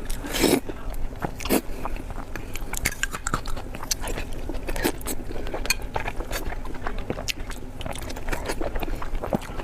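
Close-miked chewing and biting of food: a steady run of wet smacks and small clicks, with louder bites about half a second and a second and a half in.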